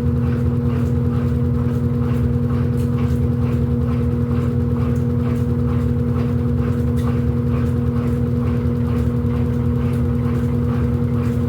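Electrolux LED14 top-load washing machine running with a loud, steady motor hum and faint regular ticking.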